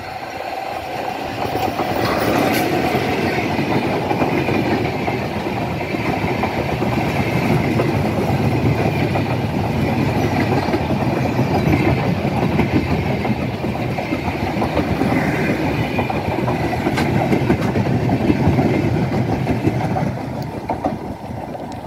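Diesel-hauled intercity passenger train passing close by: the locomotive comes through, then a long string of coaches runs past, their wheels rolling over the rails. The sound swells about two seconds in, holds steady and eases slightly near the end.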